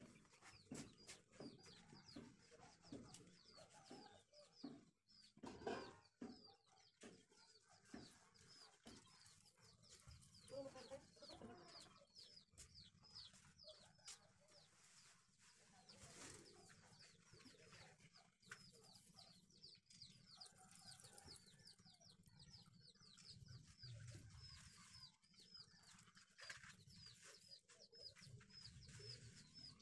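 Faint birds chirping in a quick, even run of short high notes, two or three a second, with soft rubbing and knocks from a wet cloth wiping the glass of a solar panel.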